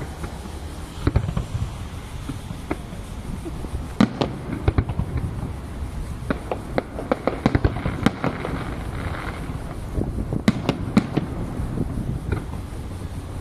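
Fireworks display: aerial shells bursting in sharp bangs, singly and in quick flurries, over a steady low rumble, with a stretch of crackling about two-thirds of the way in.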